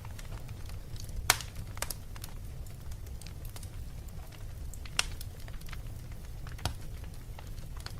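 Fireplace fire crackling over a steady low rumble, with scattered small clicks and three sharper pops.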